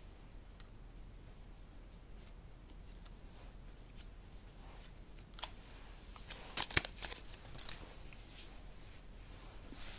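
Quiet room, then a short run of small sharp clicks and crackles from about five and a half to eight seconds in, the loudest near seven seconds, from handling something small by hand.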